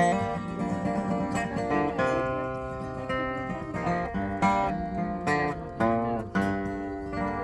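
Acoustic guitar strumming chords in an instrumental break of a campfire song, with some bending lead notes over the chords.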